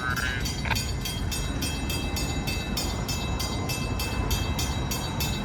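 Railroad grade-crossing bell ringing in rapid, evenly spaced strikes after the crossing has been activated for an approaching train, over a low steady rumble.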